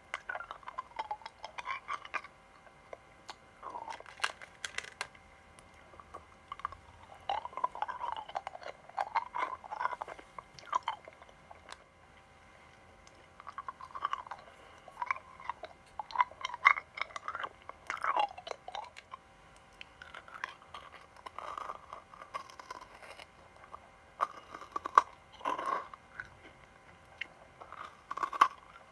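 Close-up chewing of crunchy sweets: crisp crackling crunches in bursts of a second or two, with short pauses between bites.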